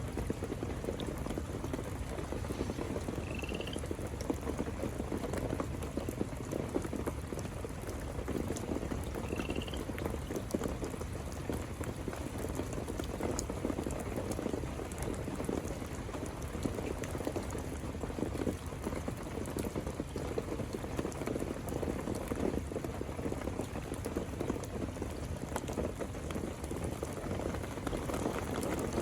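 Steady rain falling, with a dense patter of drops. A few short, high, rising chirps cut through it in the first ten seconds.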